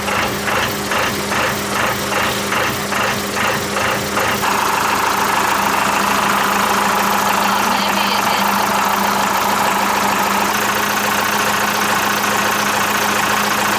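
Mercedes OM636 four-cylinder diesel marine engine running at a steady idle, pulsing about three times a second for the first four seconds. About four seconds in a steady rush of water joins and stays the loudest sound: cool water run into the exhaust elbow to find out whether the elbow is behind the engine's overheating.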